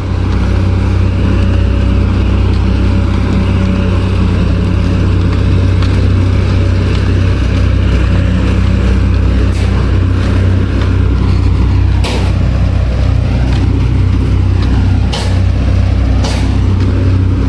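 Heavy diesel earthmoving machinery levelling a road bed, its engine running steadily with a deep drone. There are a few sharp knocks, about four, in the second half.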